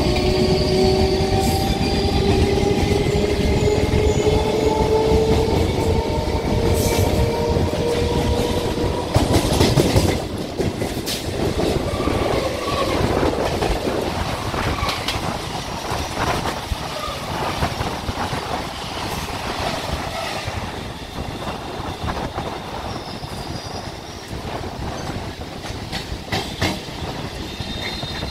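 Indian Railways passenger trains running side by side on parallel tracks, heard from a moving train: a steady rumble with wheel clickety-clack over rail joints. A whine rises in pitch over the first ten seconds, and a louder rush about ten seconds in comes as an EMU local passes close by.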